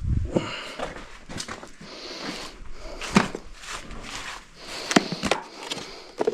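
Irregular clicks, knocks and rustling from hydraulic hoses being handled and their hose plugs pulled out of the hose ends.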